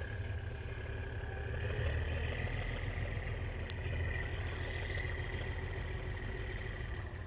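Diesel train engine running steadily, a low rumble with a high whine that rises slightly about two seconds in.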